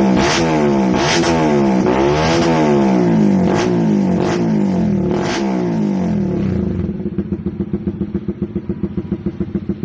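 Honda CBR150R's single-cylinder four-stroke engine through an R9 GP stainless-steel racing exhaust, its throttle blipped about six times so the revs rise and fall, with short sharp cracks between blips. About seven seconds in it settles back to a pulsing idle. The owner calls the sound 'sadis' (brutal): a harsher single-cylinder character from the aftermarket exhaust.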